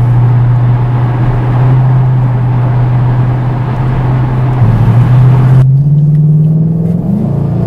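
Camaro SS 6.2-litre V8 with an MRT stainless cat-back exhaust, cruising at about 1900–2000 rpm and heard from inside the cabin as a steady low exhaust note over road noise, with only slight drone. About five and a half seconds in, the road noise drops away abruptly and the engine note rises in pitch.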